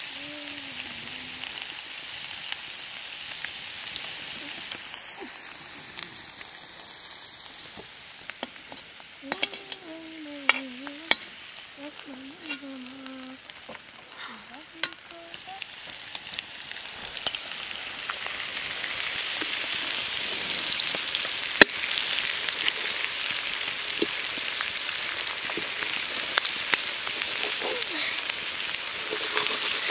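Chicken curry sizzling and frying in a pot as it is stirred, with scattered clicks of the spoon against the pot. The sizzling swells louder a little past halfway.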